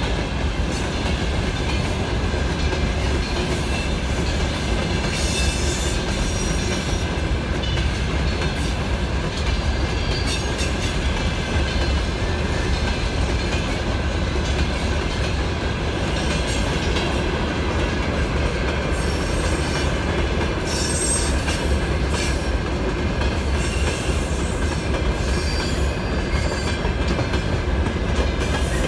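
Freight train's open wagons rolling past at steady speed: a continuous noise of steel wheels on rail, with a thin steady whine above it.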